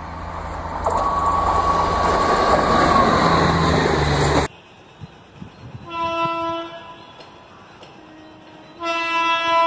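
Passenger train coaches rushing past close by, a loud rumbling rush of wheels on rail with a steady high tone for about three seconds, cut off abruptly. Then two short horn blasts from an approaching Indian Railways WAP7 electric locomotive in the distance, about three seconds apart.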